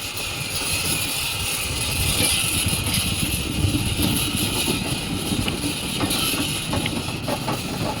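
An engine-driven machine running steadily, with a low rumble and a hiss.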